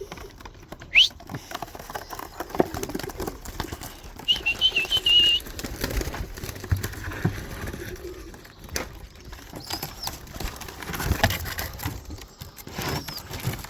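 Domestic pigeons around the loft: wings flapping and clattering in short bursts, with a brief high warbling whistle about four seconds in and a couple of short high chirps near the end.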